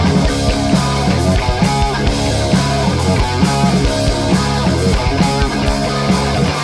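Live punk rock band playing an instrumental passage: distorted electric guitars, bass and drums.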